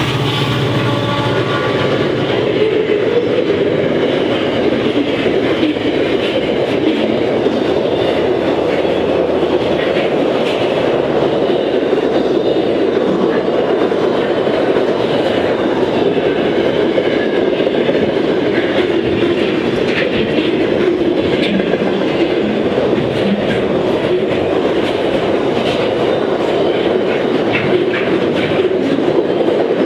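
Container wagons of a long freight train rolling steadily past at close range, with a continuous rolling noise and scattered clicks from the wheels passing over rail joints. A low engine drone from the departing diesel locomotives fades away in the first couple of seconds.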